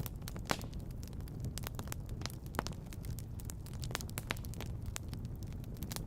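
Wood fire crackling: irregular sharp pops and snaps, a few louder ones about half a second in, at about two and a half seconds and around four seconds, over a steady low rumble.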